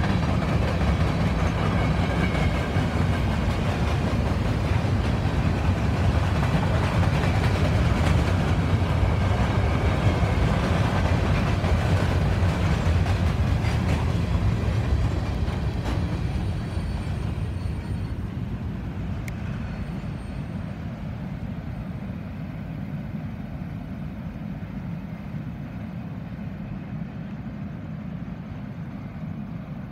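Covered hopper cars of a potash freight train rolling past on the rails: a steady low rumble with occasional sharp wheel clicks. The last car goes by about fifteen seconds in, and the sound then fades steadily as the train moves away.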